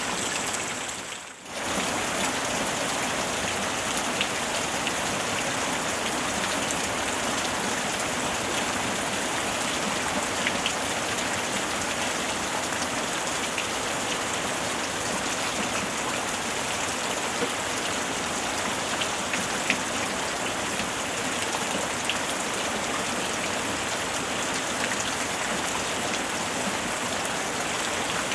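Steady rain falling, an even hiss with a few louder individual drop taps scattered through it. It drops out briefly about a second in, then resumes at the same level.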